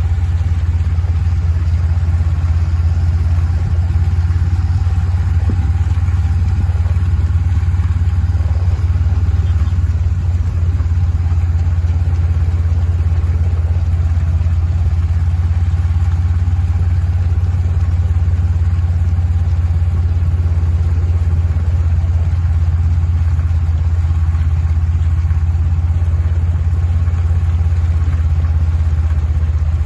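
Steady low drone of a vehicle engine running at an even, low speed, with no change in pitch.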